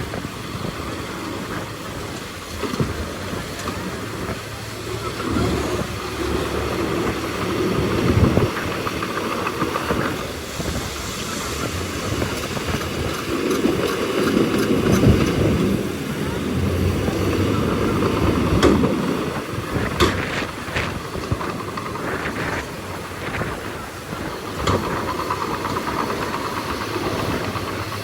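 Bulldozer's heavy diesel engine working, its sound swelling and easing with the load, with a few sharp metallic clanks a little past halfway.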